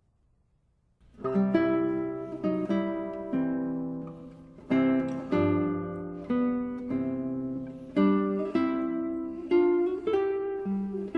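Classical guitar music: plucked notes and chords ringing out and fading, in a slow, even phrase, starting about a second in.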